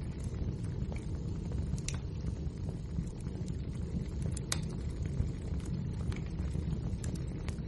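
Wood fire burning: a steady low rumble of the flames with scattered sharp crackles and pops, the loudest about two seconds and four and a half seconds in.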